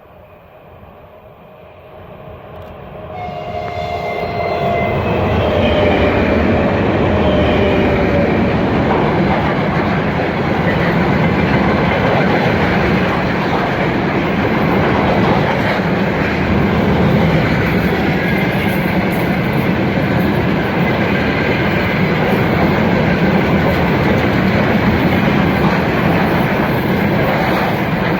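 Freight train hauled by an Ermak-series electric locomotive coming past: the sound swells over the first few seconds, with the locomotive's whine sliding slightly down in pitch as it passes. Then the wagons roll by in a steady loud rumble with wheel clatter.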